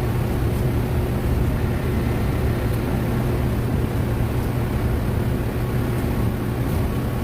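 A steady low mechanical drone with a faint constant hum, even in level and without distinct strokes.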